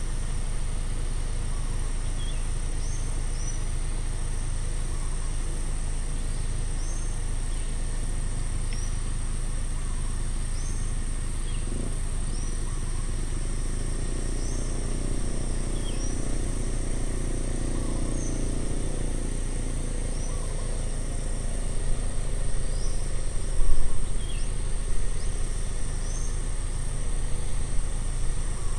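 Outdoor roadside ambience: a steady high insect hum with short bird chirps repeating every second or two over a constant low rumble. A vehicle passes about halfway through, and there is a brief louder thump near the end.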